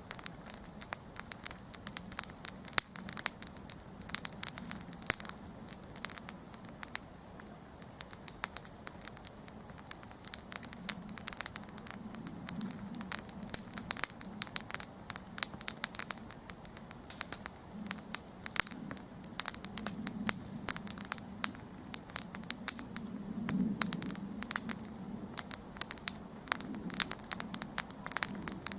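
Wood campfire burning, with dense irregular crackles and pops several times a second over the low rumble of the flames.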